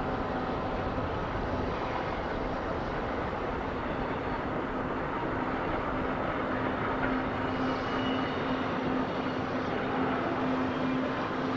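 Diesel freight locomotives working a long container train through the pass: a steady rumble with a held low hum that strengthens slightly partway through as the engines come around the curve.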